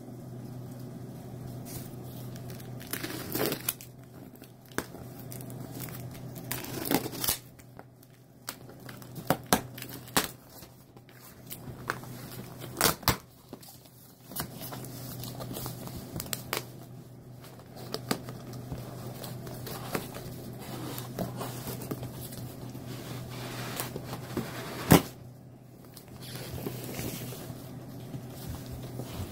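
A toy's packaging being opened by hand: plastic and paper crinkling and tearing, with scattered sharp clicks and knocks of cardboard and parts being handled, the loudest knock near the end.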